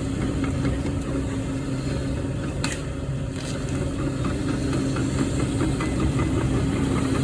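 A demolition machine's engine running steadily, with a couple of sharp knocks a little before the middle and scattered light rattles.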